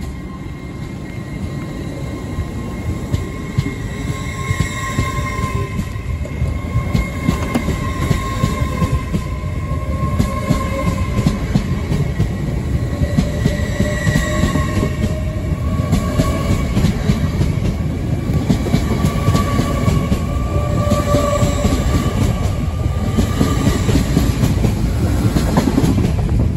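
LNER Class 801 Azuma electric train pulling out and running past on the platform road, its wheels and running gear rumbling with a high, wavering whine over the top. It grows steadily louder as the coaches go by and falls away at the very end as the last coach clears.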